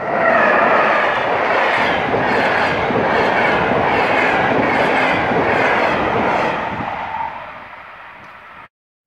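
Deutsche Bahn Intercity train of white coaches passing close at speed: a loud steady rush of wheels on rail with a regular clack about twice a second. It fades as the train draws away, then cuts off suddenly near the end.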